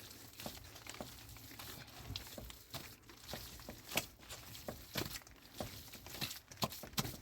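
A series of irregular clicks and knocks, with a few sharper ones in the second half.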